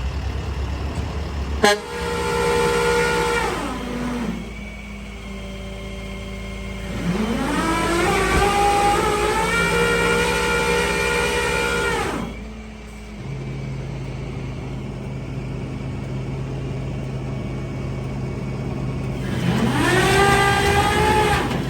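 Tow truck's engine idling, then revving up, holding high and dropping back to idle three times. There is a sharp click near the start.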